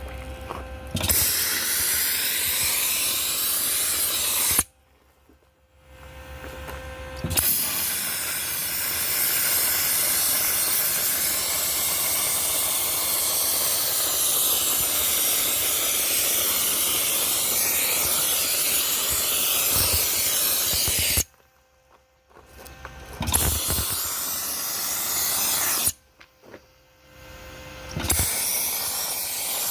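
Dry ice blaster firing a compressed-air jet of dry ice pellets: a loud, even hiss in four bursts that start and stop abruptly, the longest about fourteen seconds, with short pauses between.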